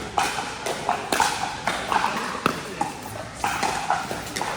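Pickleball paddles striking a hard plastic ball: an irregular run of sharp, hollow pops, several a second at times, as rallies are played.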